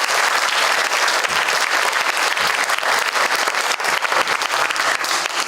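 An audience applauding: many people clapping steadily and densely in a hall.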